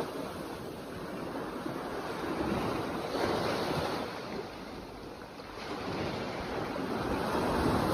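Sea waves washing ashore, the surf swelling and fading in slow surges, with wind buffeting the microphone.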